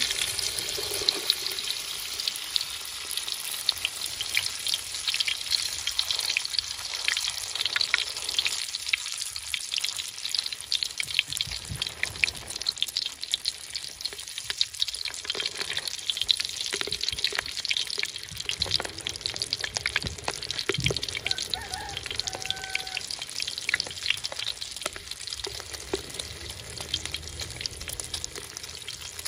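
Beaten egg, tomato and a halved luffa gourd frying in hot oil in a wok: a dense, spitting, crackling sizzle that eases off slowly as the egg sets.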